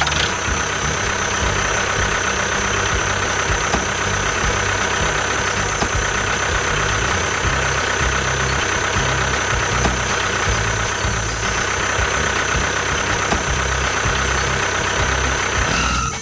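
Small engine of a homemade mini tractor running steadily, with a pulsing low throb and a constant high whine over it.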